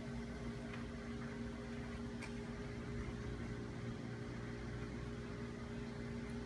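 Steady low hum with a few faint ticks: room tone.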